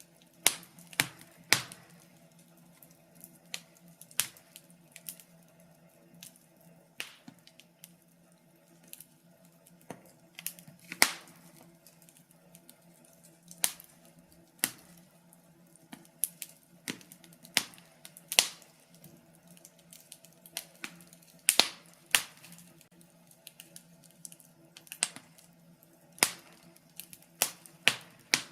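Wood fire in a fireplace crackling, with sharp irregular pops and snaps a few every couple of seconds over a faint steady low hum.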